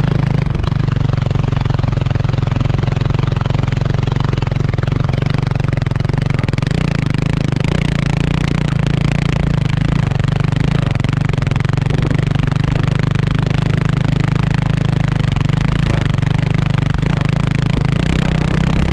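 Kawasaki KLX300R dirt bike's single-cylinder four-stroke engine running at fairly steady revs while being ridden, with a constant rushing noise over it.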